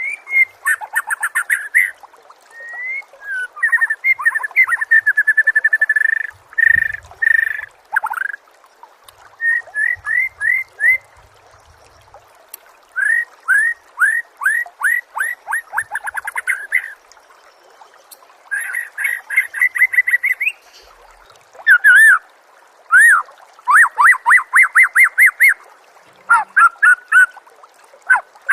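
A songbird singing in bursts of rapid repeated chirping notes, many of them quick downward sweeps, with short pauses between phrases.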